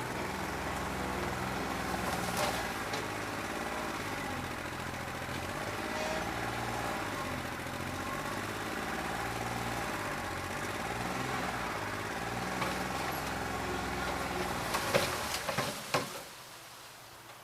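New Holland 1320 tractor's three-cylinder diesel running with a bad injector, not firing on all cylinders, its speed stepping up and down. A few sharp knocks come about fifteen seconds in, and then the engine sound cuts off.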